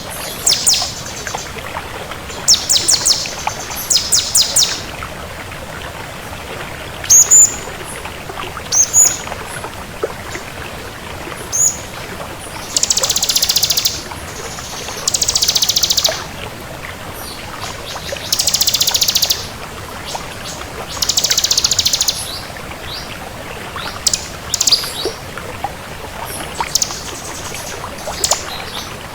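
Bar-winged prinia (ciblek) singing: high, rapid trills about a second long every few seconds, with short sharp chirps between them, over a steady hiss.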